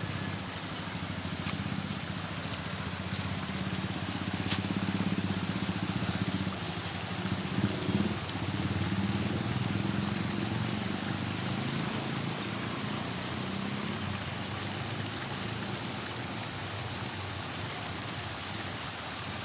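A steady low engine hum with a slightly wavering pitch, over an outdoor hiss, with a few light knocks.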